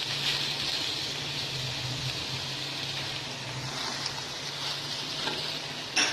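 Carrots, capsicum and cabbage sizzling as they fry in oil in a wide flat pan: a steady hiss with a low hum beneath it. One sharp clack near the end.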